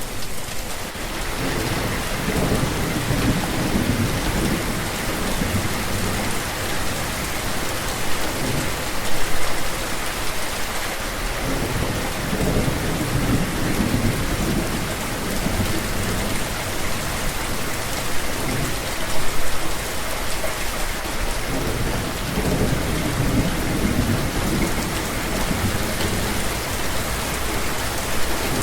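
Steady heavy rain falling, with low rolls of thunder swelling and fading several times.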